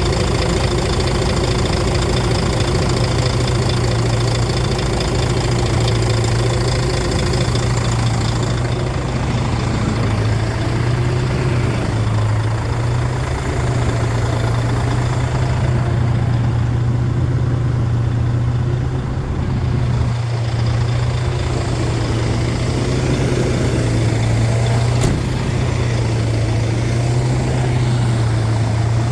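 Heavy diesel engine of a wood chipper truck running steadily at constant speed, with a strong low hum. A higher hiss eases off about nine seconds in.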